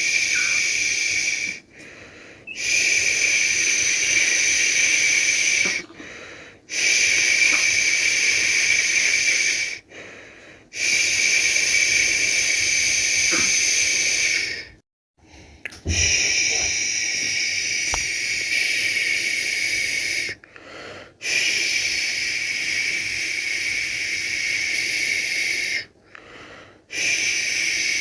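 A person making a long, steady 'shhh' shushing sound to soothe a baby to sleep, in stretches of three to five seconds with short pauses for breath between them.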